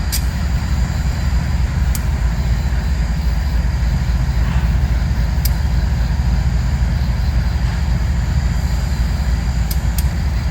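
Diesel freight train giving a steady, loud low rumble, with a few faint clicks over it.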